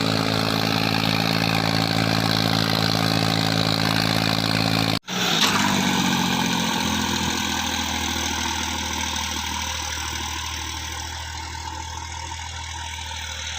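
A tractor's diesel engine running at a steady pitch; about five seconds in the sound cuts off abruptly and a different engine note takes over, slowly fading away.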